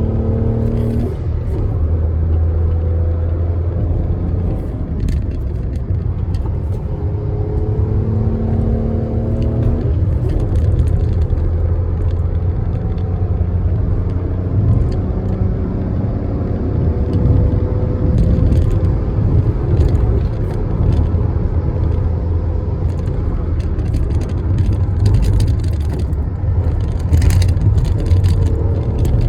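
Toyota Aygo small car being driven: steady engine and road rumble. The engine note climbs as it accelerates and drops away at each gear change, about a second in and again near ten seconds.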